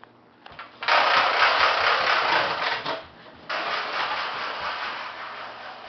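A child's loud toy truck going by with a noisy mechanical rattle, starting about a second in, breaking off briefly near the middle, then starting again and slowly fading.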